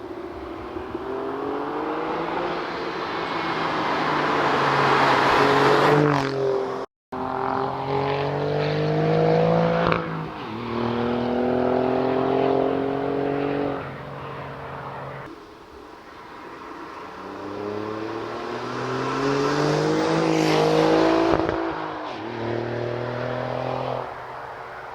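Alfa Romeo Giulia Quadrifoglio's 2.9-litre twin-turbo V6 accelerating hard through the gears. The exhaust note climbs in pitch and then drops at each upshift, several times over, with a brief break about seven seconds in.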